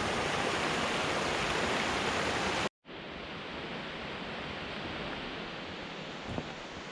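Steady rush of falling water. It breaks off abruptly about two and a half seconds in, then returns quieter and duller.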